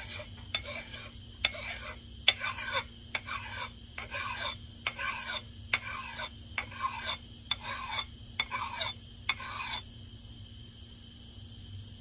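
Metal file scraping across the steel edge bevel of an axe head in even strokes, about one every two-thirds of a second, cutting a new bevel; the strokes stop about ten seconds in.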